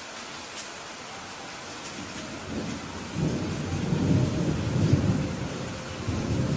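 Steady rain falling, with a roll of thunder that builds about halfway through and rumbles for several seconds, swelling once more near the end.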